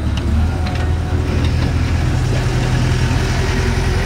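Small historic cane-train locomotive running past close by, pulling its passenger carriage: a steady, loud low engine rumble.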